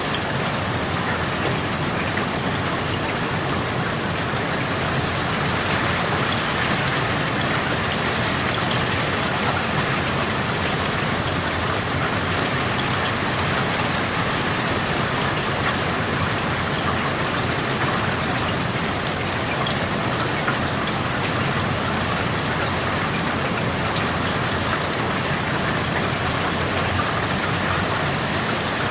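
Steady rain falling, with dense pattering of drops on surfaces heard through an open window.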